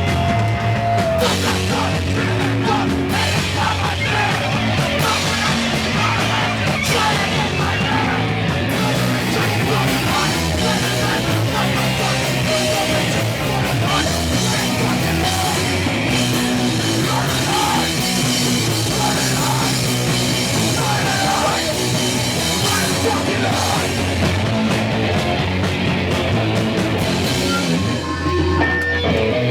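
A punk band playing live, loud and distorted, with shouted vocals over electric guitar, bass and drums.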